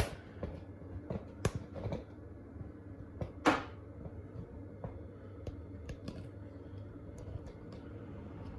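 Clicks and knocks from handling a washing machine while it is set up for a wash. The loudest is a sharp knock about three and a half seconds in. Lighter clicks come before and after it, over a faint steady hum.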